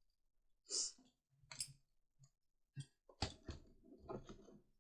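Plastic segments of a 144-piece Rubik's Snake clicking as they are twisted into position. There are a few separate clicks, then a quicker run of them from about three seconds in.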